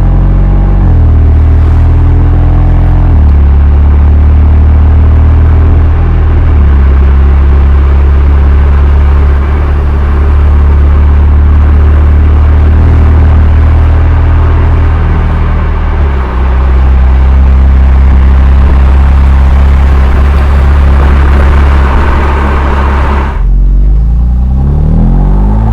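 Exhaust of a BMW M2 Competition's twin-turbo straight-six on the stock muffler, a steady low drone whose note shifts a few times as the car is driven. The recording is loud and slightly distorted from mic overload.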